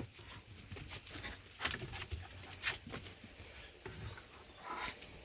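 Pocket beagle puppy sniffing and snuffling around for the scent of goose: a few short, quick sniffs, the clearest near the middle and near the end.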